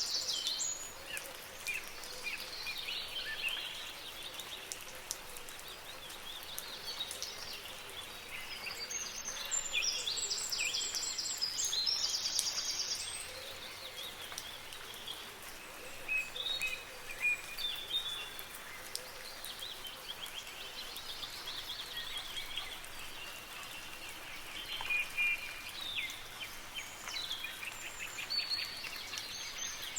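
Several birds singing and chirping in repeated high phrases, over a steady faint hiss of soft rain. The loudest, most trilled stretch of song comes about ten seconds in.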